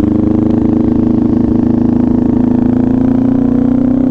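Kawasaki Ninja 400 parallel-twin engine through an SC Project slip-on exhaust, running steadily at low riding speed. The pitch eases down slightly as the rider rolls off the throttle.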